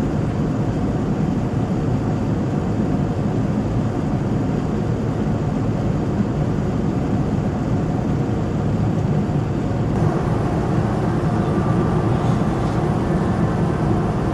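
Steady cabin noise inside a Boeing 787-9 airliner: a constant low rush of engine and airflow, turning slightly brighter about ten seconds in.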